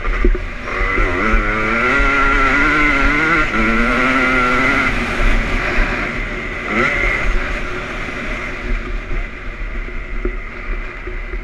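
2001 Honda CR250's single-cylinder two-stroke engine on the motocross track, revving up and down as the throttle is worked, with a sharp rise in revs past the middle. It grows fainter near the end.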